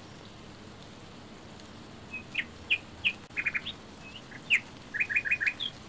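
A bird chirps the same short phrase twice: a falling note, a quick run of about four notes and a rising note. Under it is a faint steady hiss.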